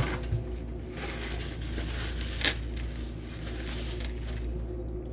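A lid is set on a simmering pan with a sharp clank, with another short knock about two and a half seconds in, over a steady low kitchen hum.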